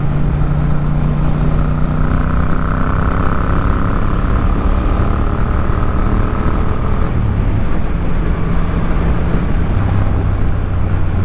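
Yamaha MT-07's parallel-twin engine running at a steady cruise, its note holding level.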